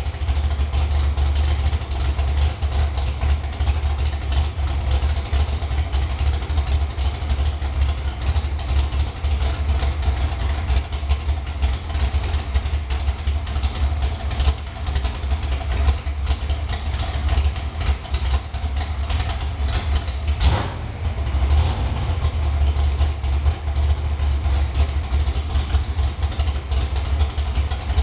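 Race truck's V8 with open headers idling with a steady, choppy beat. There is one brief sharp break about twenty seconds in.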